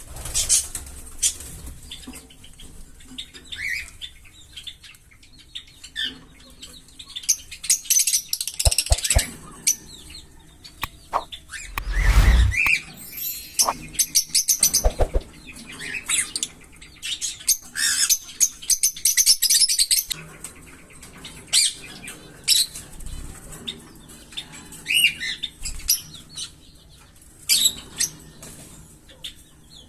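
Small pet parrots chirping with many short, sharp, high calls, along with wing flapping; a louder flurry of flapping comes about twelve seconds in.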